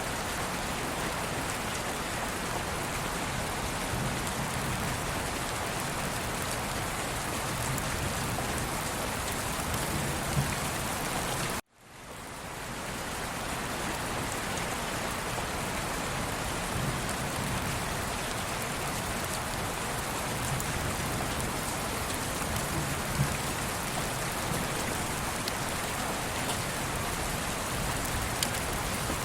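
Steady rain falling, an even hiss of drops. About twelve seconds in it cuts out abruptly and fades back up over a second or two.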